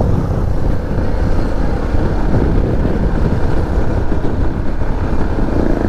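Motorcycle on the move: engine running under a steady rush of wind over the microphone.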